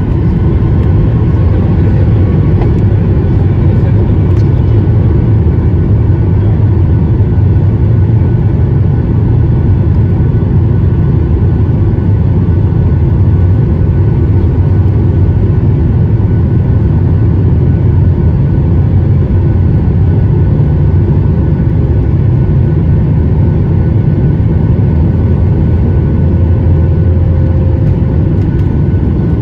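Boeing 737's CFM56 jet engines at takeoff thrust, heard from inside the passenger cabin: a loud, steady, deep roar with a faint steady whine above it.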